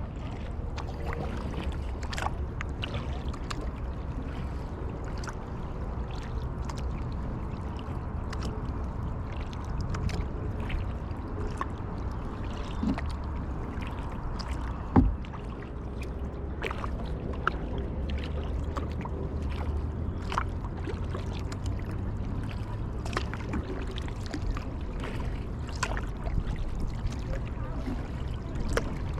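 Kayak being paddled: the paddle blades dipping and splashing and water dripping, with small clicks throughout over a low steady rumble, and one sharp knock about halfway through.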